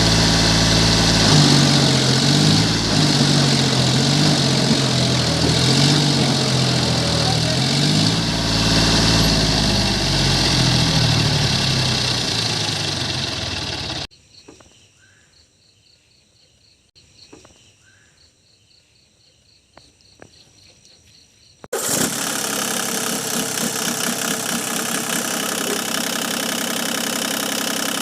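John Deere tractor engine running loud, its pitch rising and falling about once a second as it works. About fourteen seconds in it cuts off abruptly to a quiet stretch of about eight seconds with only faint ticks, then the engine comes back, running steadily.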